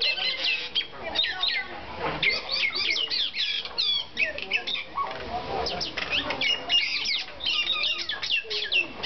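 Common mynas calling in agitation: a dense run of rapid, overlapping harsh chirps and squawks, with a short lull about halfway through. These are the excited calls of birds fighting and upset over eggs that have fallen from the nest.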